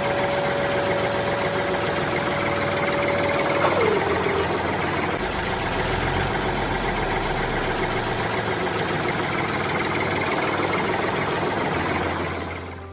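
An engine-like running sound, rough and continuous, with a steady whine that drops in pitch about four seconds in. It cuts off abruptly at the end.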